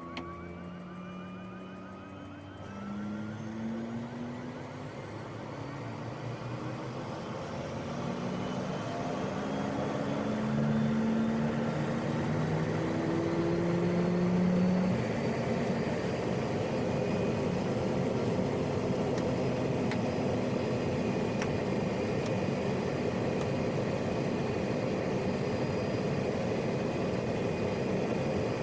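Turboprop engine of a PAC 750XL starting: a whine rises in pitch and grows louder over about the first ten to fifteen seconds as the engine spools up, then settles into a steady idle.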